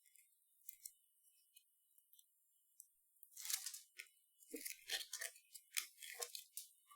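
Paper being handled: a run of short rustles and light taps starting about three seconds in, after a few faint ticks.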